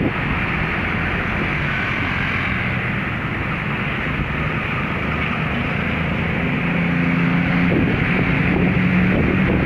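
CC 204 diesel-electric locomotive's engine running with a steady low hum that grows a little stronger past the middle, under a loud rushing noise from wind on the microphone.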